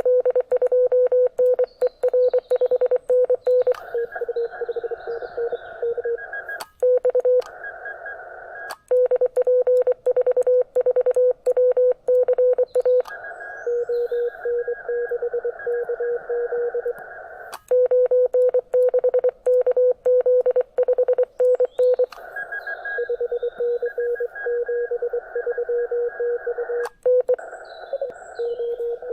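Morse code (CW) on a shortwave amateur radio transceiver: a single beeping tone keyed rapidly in dots and dashes over steady band hiss, broken by a few short pauses.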